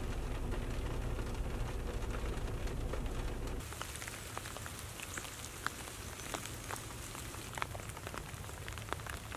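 Steady rain on a car windshield heard from inside the car, over a low rumble. About three and a half seconds in, it cuts to rain falling on leaves and grass, with scattered single drops ticking.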